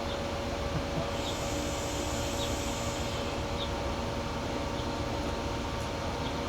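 Amtrak train standing at the platform, its diesel locomotive running with a steady drone and hum. A high hiss joins in about a second in and stops near the three-second mark.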